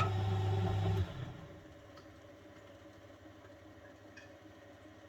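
The motor of a 1971 Constructa Garant 491 washing machine drives the drum with a steady hum and cuts off about a second in. A quiet pause in the wash rhythm follows, with a few faint ticks.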